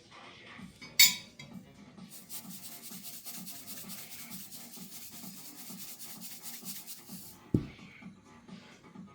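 Food being rubbed on a metal kitchen grater in fast, even rasping strokes for about five seconds, after a sharp clatter about a second in; a low thump comes near the end. Soft background music with a steady beat underneath.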